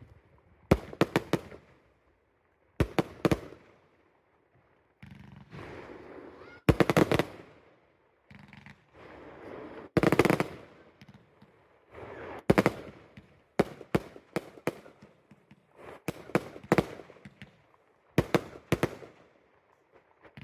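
Fireworks going off: clusters of several sharp cracking bangs in quick succession, a new cluster every one to two seconds, with quieter hissing stretches between.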